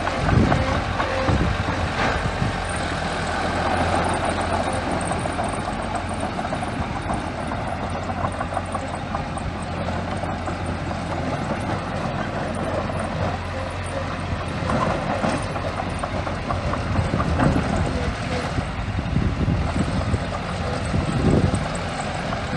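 Small bulldozer's diesel engine running steadily under work, with a few short knocks near the start and again near the end.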